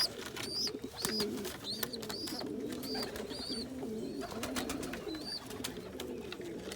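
Pigeons cooing, many overlapping coos in a steady low drone, with short high chirps repeating every half second or so and scattered light clicks.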